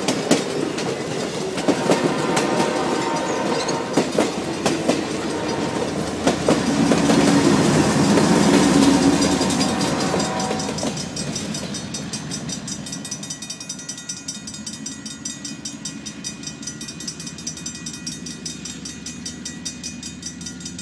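A train passing close by: passenger-car wheels clack over the rail joints, then a BNSF GE ES44DC (GEVO) diesel locomotive goes by, its engine rumble loudest about 7 to 10 seconds in. After that the train fades into the distance, and a quick regular ticking with a steady ringing carries on.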